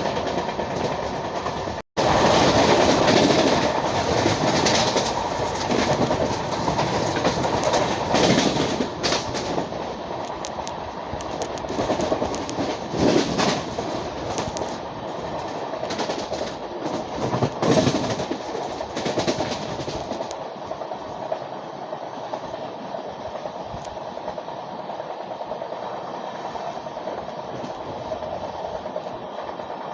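Passenger train running on the track: steady rumbling with wheels clattering over rail joints. There is a brief break about two seconds in, and the noise becomes quieter and duller about two-thirds of the way through.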